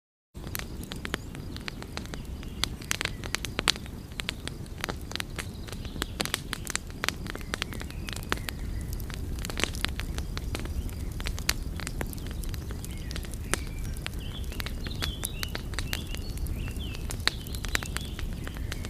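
Wood fire crackling, with frequent irregular sharp pops and snaps over a low steady rumble of burning. The sound drops out briefly at the very start.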